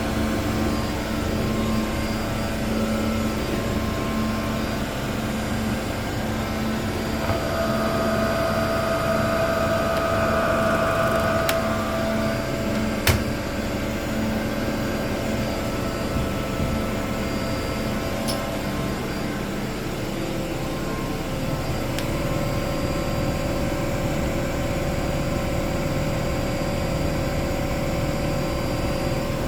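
Two Miele front-loading washing machines, a Vitality W427 and a Novotronic W971, spinning fast in their final spin: a steady motor whine with several tones whose pitch shifts a third of the way through. A few sharp clicks sound over it.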